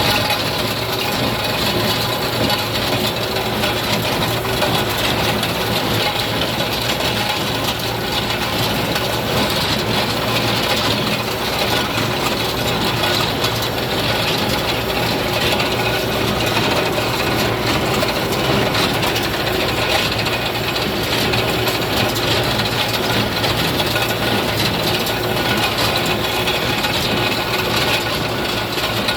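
New Holland 271 small square baler working, a steady mechanical clatter and rattle over a running engine.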